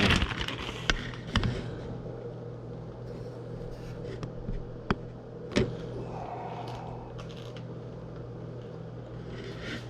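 A handheld camera being set down and adjusted, making a few sharp clicks and knocks about one, one and a half, five and five and a half seconds in. Under them runs a steady low electrical hum.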